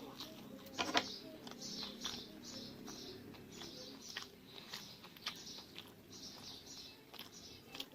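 Close-up chewing of food, wet mouth sounds coming about two to three times a second, with one sharper bite or crunch about a second in.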